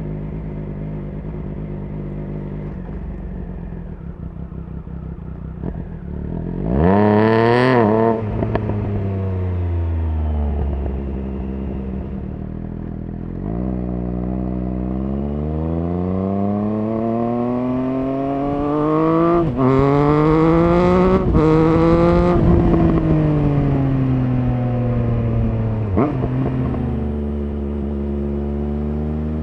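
Triumph Speed Triple RS 1050's three-cylinder engine being ridden: steady running, a quick sharp rise in revs about seven seconds in, then a long climb in revs with two abrupt gear changes around twenty seconds in. The revs then fall under deceleration, with another gear change shortly before the engine starts pulling up again near the end.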